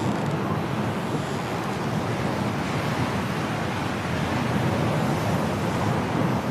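Strong storm wind blowing in a snowstorm, a steady rushing noise with a low rumble of wind buffeting the microphone.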